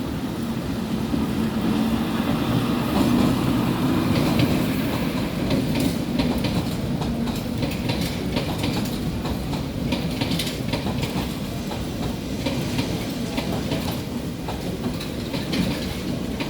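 Diesel multiple unit commuter train moving through a station: a steady engine drone with wheels knocking and clacking over rail joints, the clacks coming thicker from about a third of the way in.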